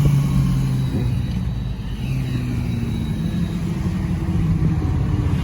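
Car engine running at steady, moderate revs with a low rumble.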